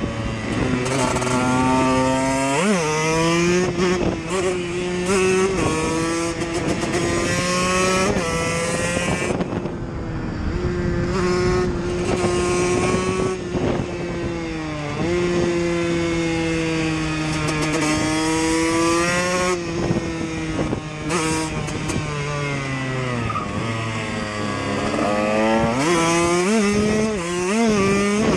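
KTM EXC dirt bike engine riding under way. The revs climb and drop repeatedly through gear changes, with a sharp blip about three seconds in and several quick blips near the end.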